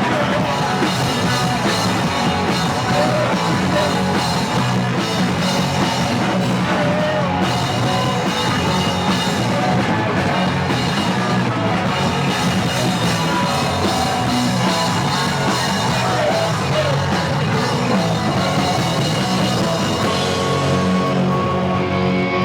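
Punk band playing live: loud distorted electric guitars, bass and drum kit, with shouted vocals buried in the mix. Near the end the pounding gives way to held, ringing guitar chords.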